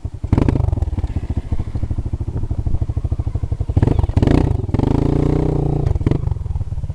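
400cc motocross bike engine running with a fast, even pulse, briefly revved up and back down about four to six seconds in.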